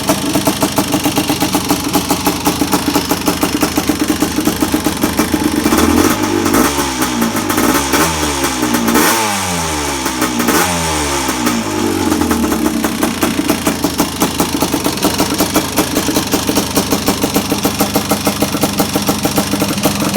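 Honda ATC 250R's two-stroke single-cylinder engine idling with a steady pulse, blipped through several quick revs around the middle, then settling back to idle.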